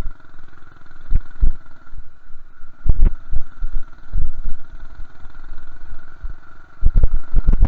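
Minibike's small engine running, with a steady high whine above it and irregular low thumps on the microphone, heaviest near the end.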